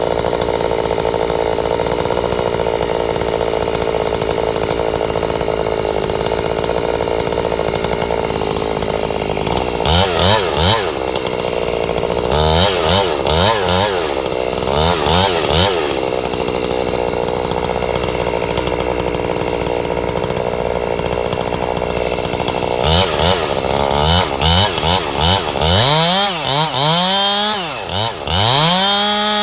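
Two-stroke chainsaw ripping a log lengthwise freehand, running steadily under load. Its engine pitch rises and falls repeatedly for several seconds about a third of the way in, and again over the last few seconds.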